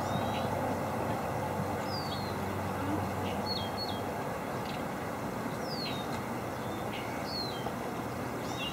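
A bird giving short, high chirps about every second or so, several falling in pitch, over a steady low background rumble.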